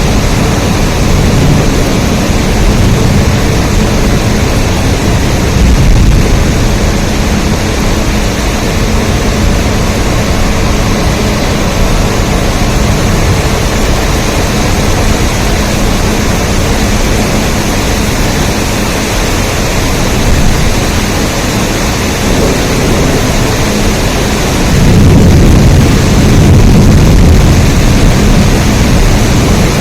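Rain falling steadily: a dense, even hiss with a low rumble underneath that swells louder for a couple of seconds near the end.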